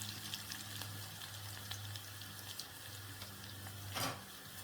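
Onions and garlic frying in oil in a pot, a faint steady sizzle with light crackling, and a short louder noise near the end.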